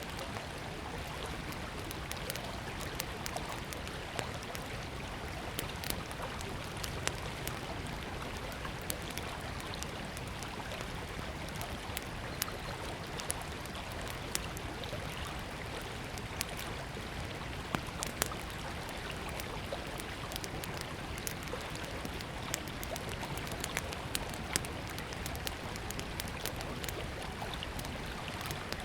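Small wood fire crackling with frequent sharp pops over the steady rush of a flowing river.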